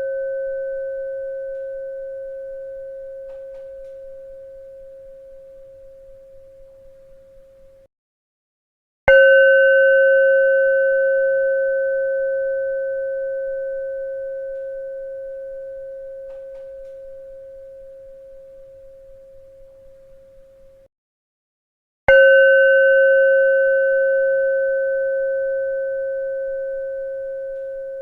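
A bell struck twice, about thirteen seconds apart, each strike ringing with a steady pure tone that slowly fades over about twelve seconds. It opens on the fading ring of an earlier strike, and each ring cuts off abruptly about a second before the next strike.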